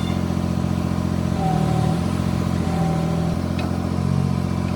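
A motor running steadily with a low, even hum and small shifts in its tone.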